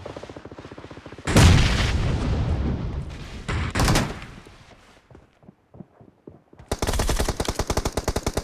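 Video game automatic gunfire: rapid rifle shots, then a loud close burst about a second in that fades over a few seconds, a short lull, and a sustained run of rapid automatic fire near the end.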